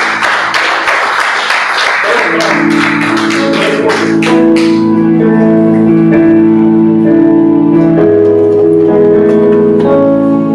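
Worship music played live: a guitar strummed for the first four seconds or so, then held, sustained chords.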